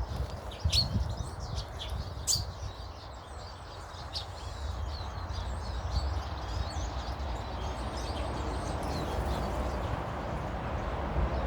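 Small garden birds chirping and twittering in short, scattered calls, two of them sharper and louder in the first few seconds. A steady low rumbling noise runs underneath.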